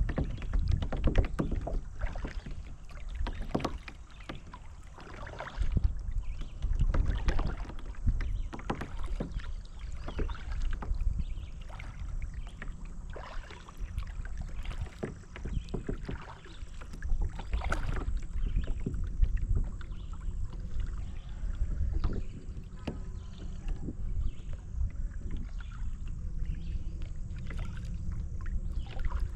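Kayak paddle dipping and splashing in river water, the strokes coming irregularly every second or two over a steady low rumble.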